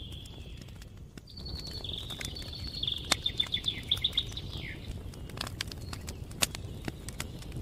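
Birds singing, with a trill of rapidly repeated high notes from about one to five seconds in, over the crackle and occasional sharp pops of a wood campfire.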